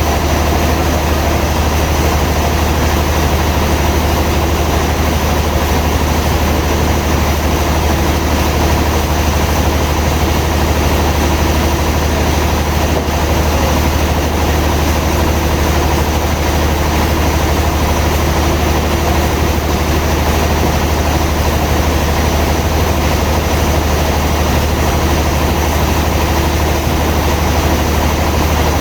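Sawmill machinery running steadily: a loud, unchanging low drone.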